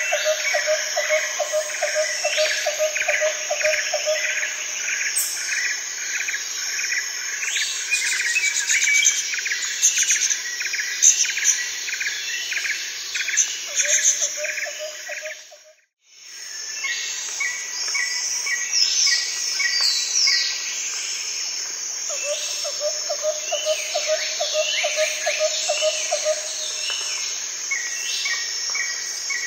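Outdoor chorus of birds calling and singing over steady insect chirping, with short repeated chirps and quick sweeping calls. A lower rapid trill comes and goes several times. The sound cuts out for a moment about halfway through.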